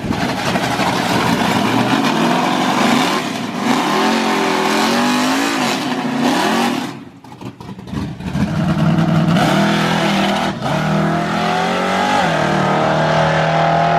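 High-powered car engine running and revving. Its pitch rises and falls repeatedly, dips away briefly about seven seconds in, then comes back and climbs again near the end.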